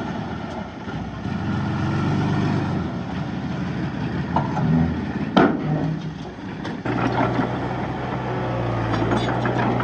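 Heavy diesel earthmoving engine running; its note wavers and dips in the middle, then settles to a steady drone about seven seconds in. One sharp metallic clank about five seconds in.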